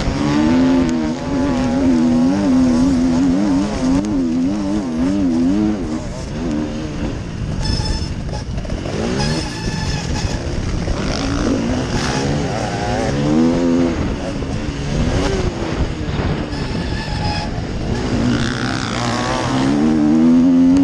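KTM motocross bike engine racing, heard from on board the bike: the revs rise and fall rapidly and constantly as the throttle is worked over the bumps and turns of the track.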